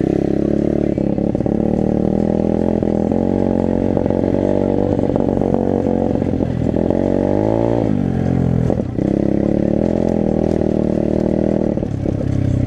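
Dirt bike engine running while riding, its pitch dropping and climbing back up about seven seconds in.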